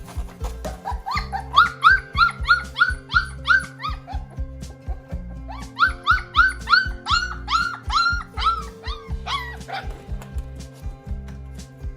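A puppy crying in two runs of short high calls, about three a second, over background music.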